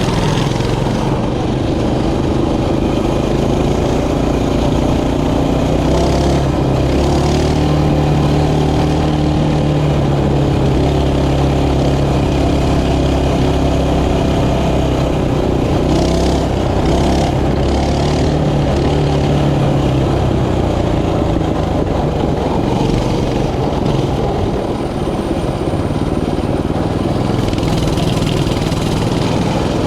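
Mini bike engine running under way, its pitch rising and falling with the throttle.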